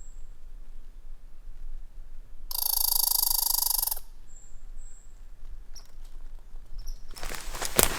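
A loud, rapidly pulsed trilling animal call lasting about a second and a half, with faint high bird chirps around it. Footsteps on the forest floor begin near the end.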